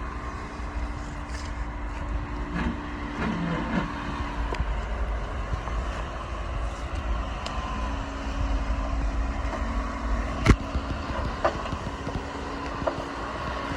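Jeep engine running steadily at low speed, with scattered clunks and knocks and one sharp knock about ten and a half seconds in.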